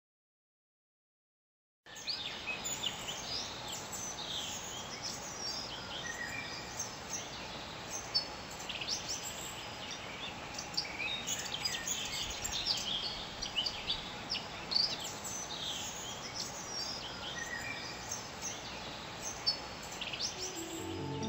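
Silence for about the first two seconds, then several birds chirping and singing in many short, quick calls over a steady background hiss of outdoor ambience.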